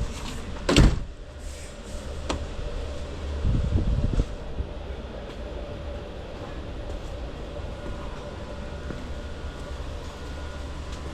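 Ford 4.6L V8 engine of a 2000 Lincoln Town Car idling steadily, with a sharp knock about a second in and a brief louder rumble around four seconds.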